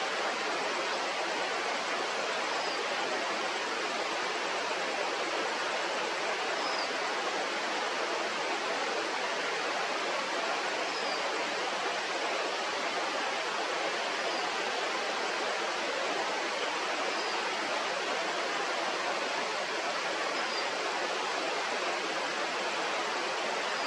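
Steady rush of flowing river water, even and unbroken, with a faint short high chirp about every three to four seconds.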